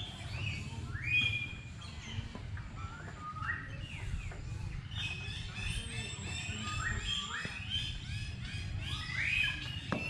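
Small birds chirping, many short calls a few a second and overlapping, over a steady low rumble. A sharp click near the end.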